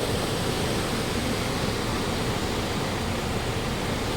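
Waterfall's water falling as a steady, even rush.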